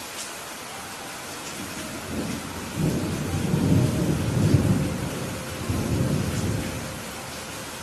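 Thunder rumbling over steady rain: a low rolling rumble builds about two seconds in, swells twice, then dies away, with the rain hiss running on underneath.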